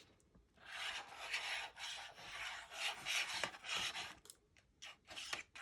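Four rasping strokes of a papercraft tool drawn along cardstock, each about a second long, with a short gap between them and a few shorter strokes near the end.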